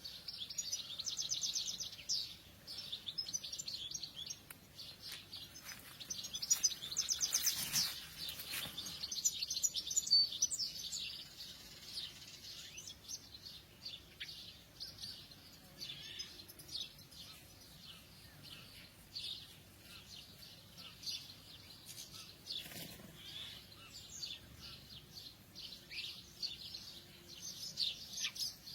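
A dawn chorus of several songbirds: many chirps and trills overlapping, densest about six to nine seconds in.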